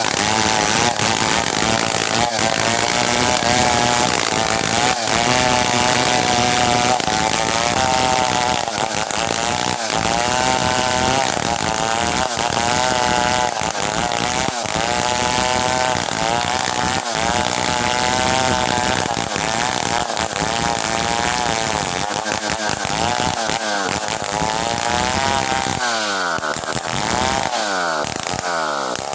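Stihl 070 two-stroke chainsaw running under load, cutting through merbau hardwood, its engine note wavering steadily. Near the end the engine speed swings up and down.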